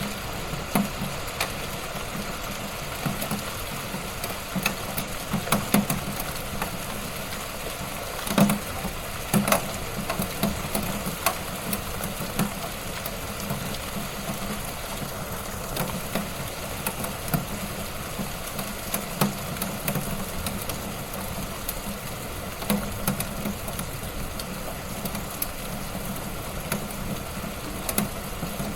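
Wood fire burning in a fireplace: a steady low hiss and rush with frequent irregular crackles and pops, a few louder snaps among them.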